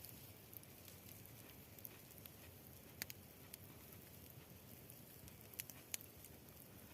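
Near silence, with a few faint, sharp clicks scattered through it; the two clearest come about three seconds and six seconds in.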